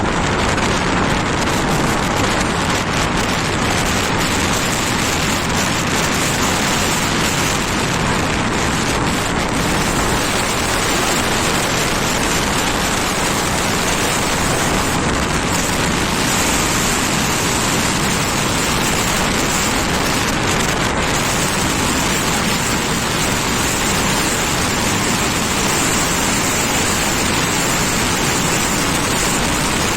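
Steady rushing wind and road noise from riding a Honda Activa scooter, wind blowing across the microphone.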